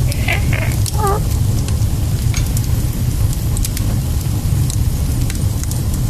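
Fire crackling in a fireplace, with scattered sharp pops over a steady low rumble. A short wavering high-pitched call is heard about a second in.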